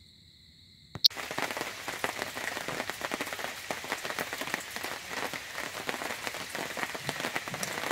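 After about a second of near silence, steady rain begins pattering, drops ticking densely on the camper trailer's awning overhead.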